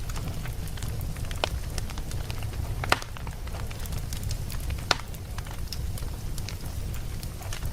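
Wood campfire burning with a steady low rumble and a stream of small irregular crackles. Two sharper pops stand out, about three and five seconds in.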